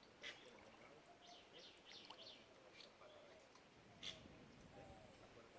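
Faint birdsong: short high chirps in quick little groups, with a soft click twice.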